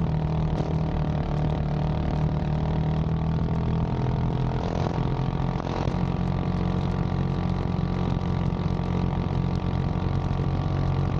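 A large engine running steadily under load with an even low drone, holding much the same note throughout.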